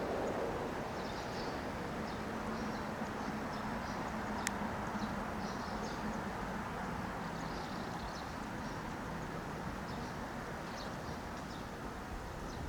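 ET122 diesel railcar running away into the distance, its faint engine hum slowly dying out, with small bird chirps throughout and one sharp click about four and a half seconds in.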